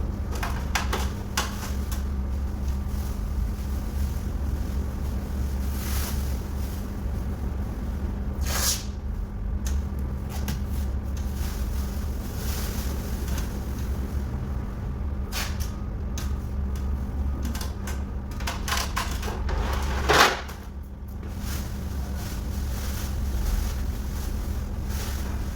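Masking material being handled on a bus body: intermittent rustling and tearing or pulling noises, the sharpest about twenty seconds in, over a steady low hum.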